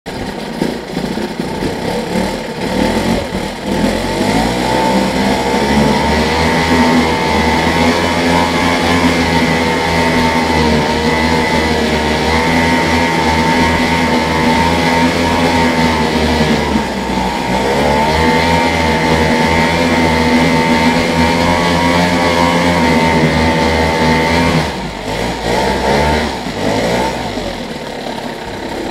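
Tomos T4 two-stroke outboard motor running well. It revs up about four seconds in and holds high revs, dips briefly midway and picks up again, then throttles back near the end and runs lower and less evenly.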